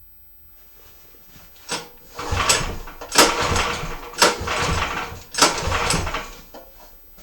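Magnum BS190F 15 hp single-cylinder petrol engine, a Lifan clone, being cranked over in four short attempts of about a second each, after a brief first tug, without starting.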